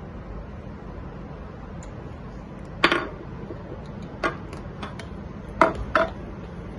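A utensil clinking against a bowl about five times, in short sharp taps spread over a few seconds, as sauce ingredients are measured in by the spoonful. A steady low hum runs underneath.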